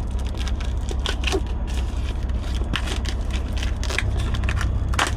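Packaging crinkling and crackling as it is handled, in quick irregular clicks, over a steady low rumble.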